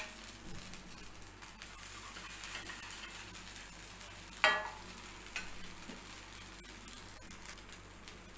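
Bread pizza slices sizzling faintly on a flat dosa tawa over a low flame, with a sharp metallic clink of a utensil about four and a half seconds in and a smaller tick about a second later.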